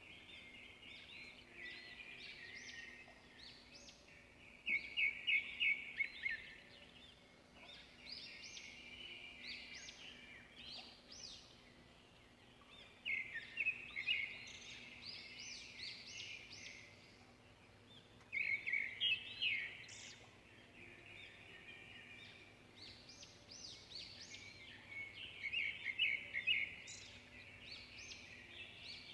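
Small birds chirping: runs of quick high chirps, with louder flurries every few seconds, over a faint steady low hum.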